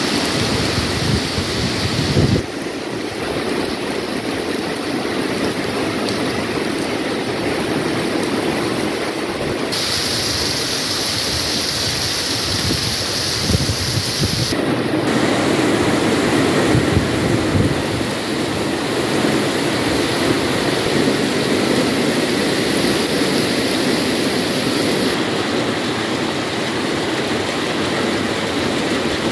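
Heavy rain pouring down and splashing on paving and running water, with gusts of wind rumbling on the microphone.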